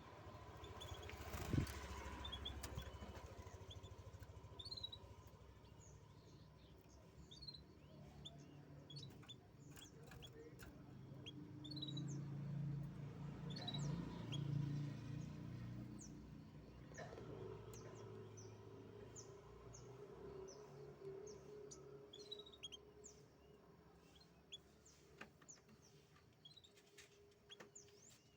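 Small songbirds, canaries, giving scattered short, sharp chirps, over a low background rumble that swells around the middle and a steady hum that comes in about two-thirds of the way through.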